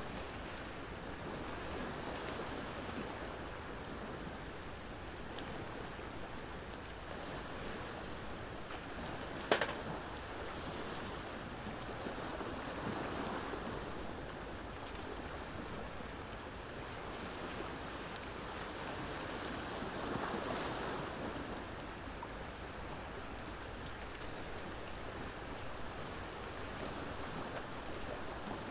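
Ocean waves washing ashore in a steady wash that swells every several seconds, with a wood campfire crackling and one sharp pop about ten seconds in.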